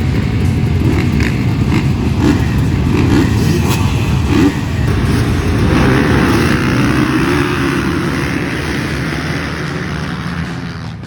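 Dirt bike engine running hard at high revs, its pitch rising and falling, easing off somewhat near the end.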